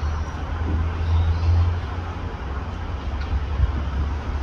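Low steady rumble of a distant multiple-unit passenger train approaching slowly.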